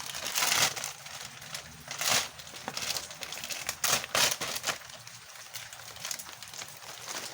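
Irregular crinkling and rustling of something being handled, with scattered sharp crackles, loudest near the start and around two and four seconds in.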